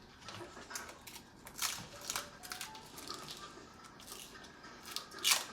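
Irregular rustling and crinkling of paper being handled, with a louder rustle near the end.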